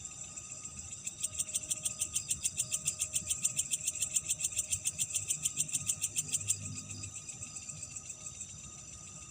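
Night insect chorus with a steady high ringing. About a second in, a loud, rapid pulsing call starts, about nine pulses a second, and stops abruptly near six and a half seconds.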